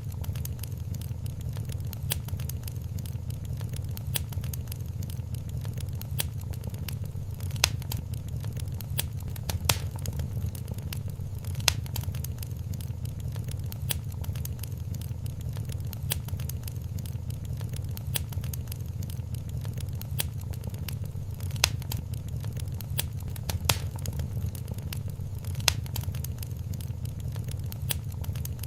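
Wood fire crackling in a fireplace: a dense stream of small crackles with sharper pops every couple of seconds, over a steady low rumble.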